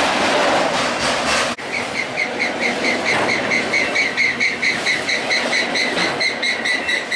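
Freight train rolling noise that cuts off suddenly about a second and a half in. It is followed by a railroad grade-crossing bell ringing rapidly and evenly over fainter train noise.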